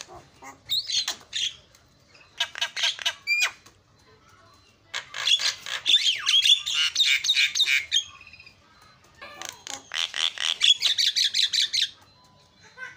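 Javan myna singing in bursts of rapid, harsh chattering and squawking notes. There are four phrases, the longest lasting about three seconds, with short pauses between them.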